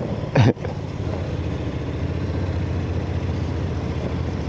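Motorcycle engine running steadily at a constant pace while riding, with road and wind noise.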